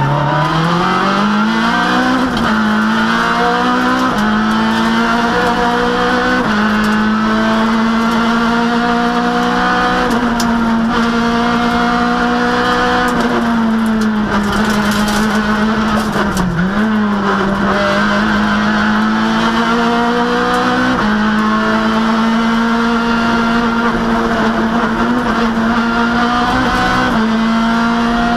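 Citroën Saxo rally car's four-cylinder engine at full throttle, heard from inside the cabin. The revs climb steeply through quick upshifts in the first few seconds, then stay high. A brief dip and recovery in the engine note comes a little past the middle.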